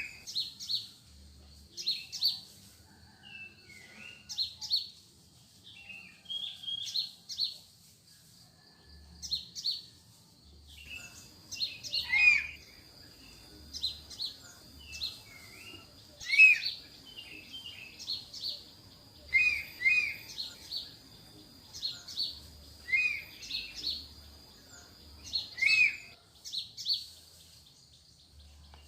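Wild mountain-forest birds calling: short high chirps repeat every second or so, mixed with lower, sliding notes. A faint, steady high tone runs underneath.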